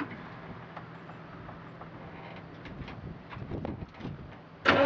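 A few faint knocks and clicks over a low background, then near the end the starter motor suddenly begins cranking the 1968 Chevrolet C-60's 327 V8 on a cold start, the engine not yet catching.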